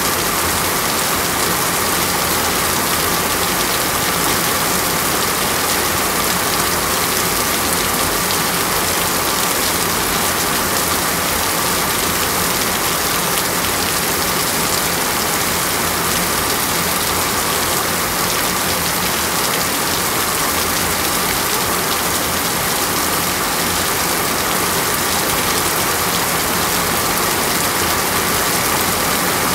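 Steady rain falling on leaves, an even hiss that does not change.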